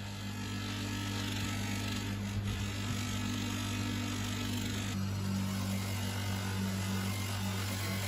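A power tool's electric motor running steadily with a constant hum and a broad hiss.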